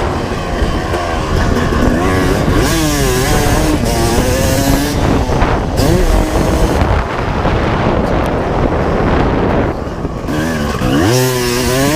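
1995 Honda CR250R's two-stroke single-cylinder motocross engine being ridden hard, its pitch rising and falling with the throttle and gear changes. It gives quick sharp revs about three seconds in and again near the end, and eases off briefly a little before that.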